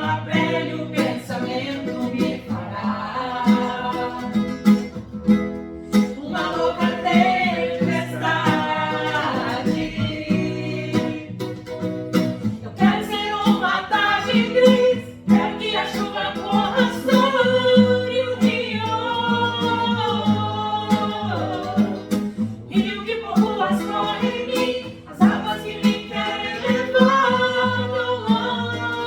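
Singing voices performing a song, accompanied by a steadily strummed acoustic guitar.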